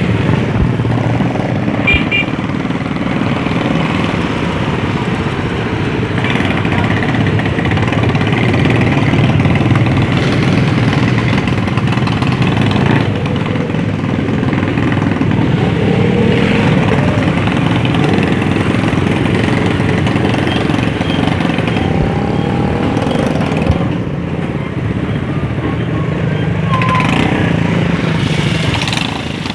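Road traffic noise: vehicle and motorcycle engines running, with faint voices in the background.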